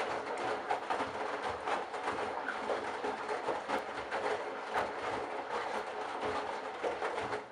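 Candy Bianca front-loading washing machine's drum tumbling a wet load on a delicates wash, with an irregular sloshing and clattering that stops suddenly at the very end.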